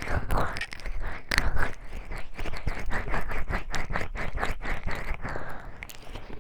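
Oiled hands rubbing and massaging the ears of a 3Dio binaural microphone: slick, wet rubbing sweeps, with a run of quick short strokes, several a second, in the middle.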